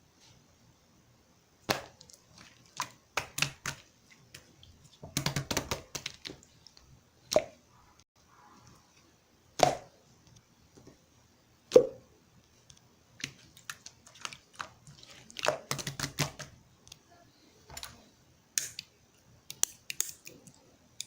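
Runny mixed slime being squeezed and pressed by hand, giving irregular wet clicks, pops and sticky crackles, with denser bursts of squishing about five seconds in and again around fifteen seconds.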